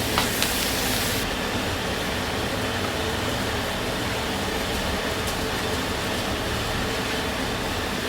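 Steady low rushing noise of a commercial kitchen's burners and ventilation. Food sizzles for about the first second, then the sizzle stops.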